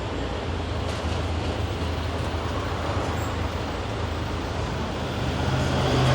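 Engine and road noise heard from the open back of a Thai red songthaew pickup truck on the move: a steady low drone with road hiss. Near the end the drone grows louder and rises slightly in pitch.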